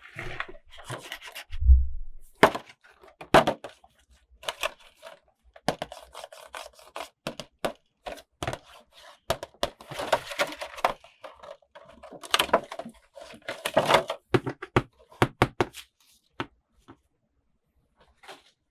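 Toy packaging being handled and opened by hand: irregular rubbing, crinkling and sharp clicks, with a low thump about two seconds in and longer rustling stretches in the middle.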